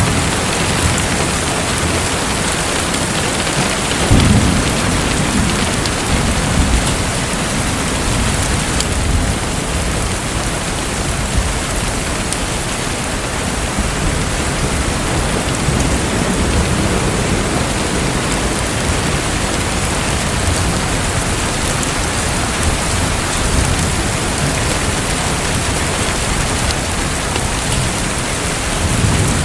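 A steady hiss of falling, splashing water, with a low rolling rumble welling up about four seconds in and again around the middle.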